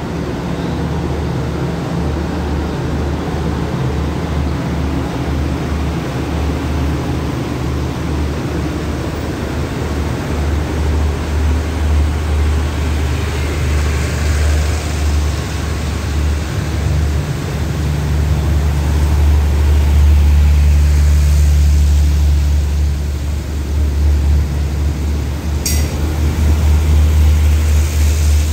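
State Railway of Thailand express passenger coaches rolling past at low speed: a steady low rumble of wheels on the rails that grows louder, with one short sharp click near the end.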